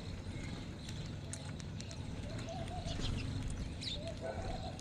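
Mixed flock of birds feeding: short high chirps scattered throughout, with lower warbling calls about two and a half and four seconds in, over a steady low rumble.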